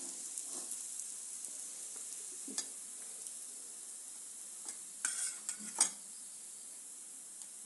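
Puran poli frying in ghee on a hot non-stick pan: a steady sizzling hiss, with a few short clicks and taps about five seconds in.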